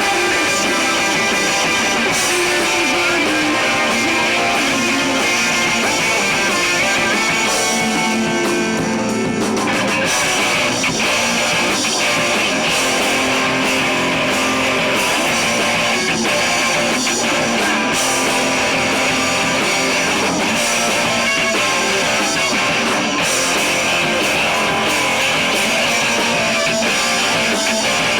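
A live rock band playing loud, with strummed electric guitars and drums. The sound thins out briefly just before ten seconds in, then the full band comes back in.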